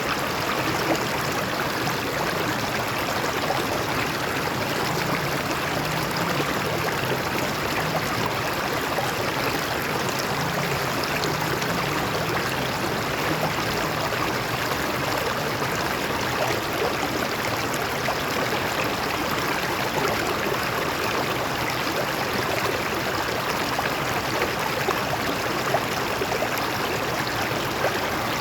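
Stream water running and splashing over rocks, a steady rushing flow with small gurgles.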